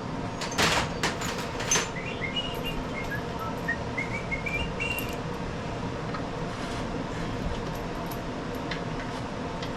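A few sharp metallic clicks of parts and tools being handled in the first couple of seconds, then a bird chirping a quick series of short notes that step up and down in pitch, over a steady background hum.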